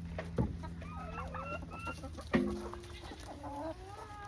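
A flock of chicken hens clucking and chirping in short, pitch-bending calls. A low steady hum underneath cuts off with a knock a little past halfway.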